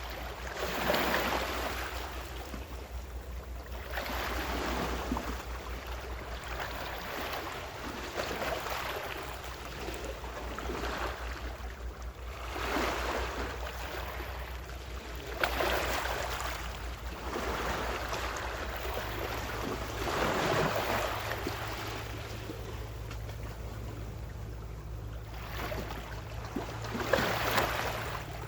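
Ocean waves washing onto the shore, each surge swelling and easing off every few seconds, with a steady low hum underneath.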